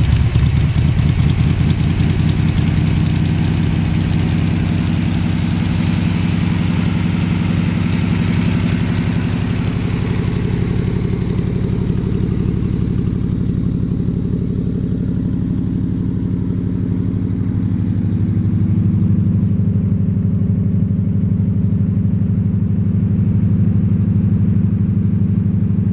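A 383 stroker V8 idling steadily just after being started, with a deep, even engine note. Extra upper hiss fades away over the first ten seconds or so, and the idle shifts slightly about two-thirds of the way through.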